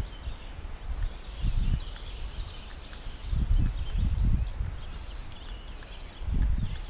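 Irregular low thumps and rumbles in three clusters, about a second and a half in, in the middle and near the end, over a faint steady high-pitched hum.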